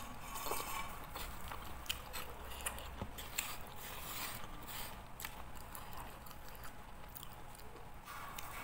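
Close-up eating sounds: chewing with wet mouth and lip smacks, and many small irregular clicks as fingers pick food off a ceramic plate.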